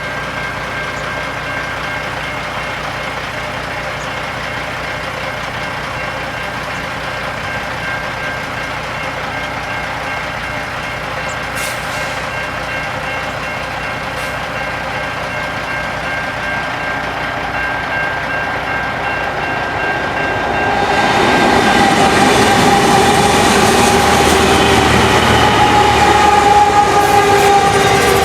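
Freight train hauled by four diesel locomotives approaching with a steady rumble and drone. About 20 seconds in it gets markedly louder as the train comes close, with sustained high squealing from the steel wheels on the rails.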